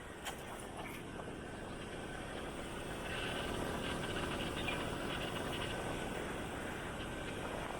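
A motorcycle riding along a road: steady engine, tyre and wind noise that grows louder about three seconds in, with a brief click near the start.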